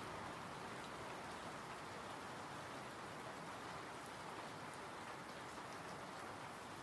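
Steady rainfall, an even hiss of rain with faint individual drop ticks.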